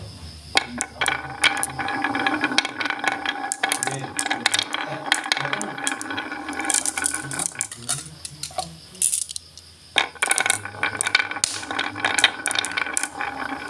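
Wood fire crackling, with a dense run of sharp snaps and pops that thins out briefly about eight seconds in.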